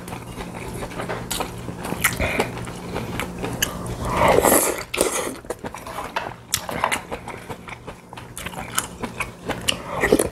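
Close-miked eating sounds: two people biting and chewing deep-fried mackerel and kimchi, with many short crisp crunches and clicks. The loudest stretch comes about four seconds in.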